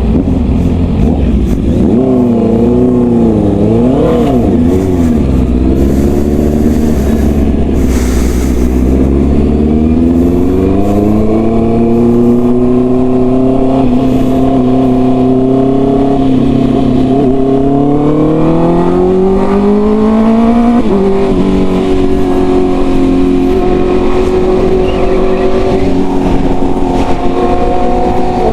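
Honda CB650R's inline-four engine through a full-system exhaust, under way. The revs waver up and down a few seconds in, then climb steadily, drop sharply about two-thirds of the way through, and settle at a steady pitch.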